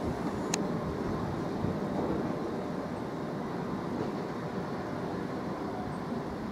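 Train running along the line toward the station: a steady rumble, with one sharp click about half a second in.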